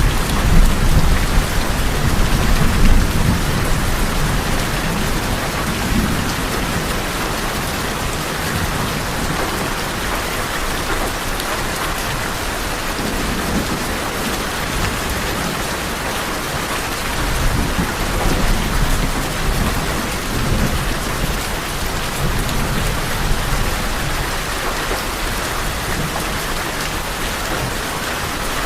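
Steady heavy rain falling on tin roofs, with low thunder rumbling during the first few seconds and again, more softly, a little past halfway.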